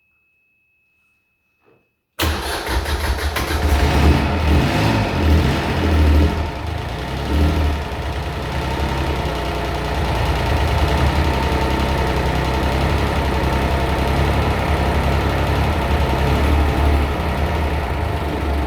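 Sole Diesel Mini 26 marine diesel, a Mitsubishi L3E three-cylinder, starting: near silence with a faint steady tone, then about two seconds in the engine fires at once and runs, uneven for the first few seconds before settling into steady running.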